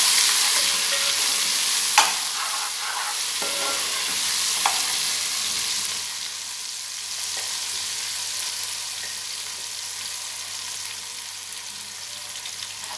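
Ginger-garlic paste sizzling in hot oil with fried onions in an aluminium pot, stirred with a metal spatula that clinks against the pot a couple of times. The sizzle is loudest at first and eases off after about six seconds.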